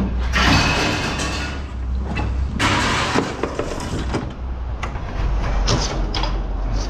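Aluminum scrap, old window extrusions, being handled: two scraping, clattering bursts about a second long near the start and about two and a half seconds in, then several sharp knocks, over a steady low engine rumble.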